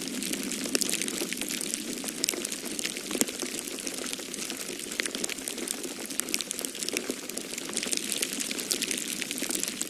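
Wood fire crackling in a fireplace: a dense, irregular run of small pops and snaps over a steady hiss.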